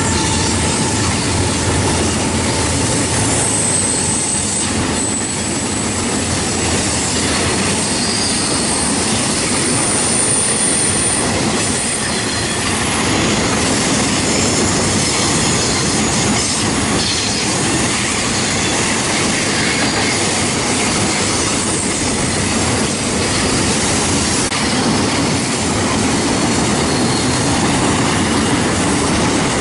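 Double-stack intermodal container cars of a BNSF freight train rolling past: a steady rush of steel wheels on rail, with thin high wheel squeals on and off in the first half.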